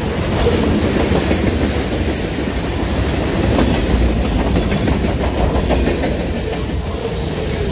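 Freight cars, lumber-loaded flatcars and covered hoppers, rolling past at close range: a steady rumble of steel wheels on the rails with rapid, continuous clicking.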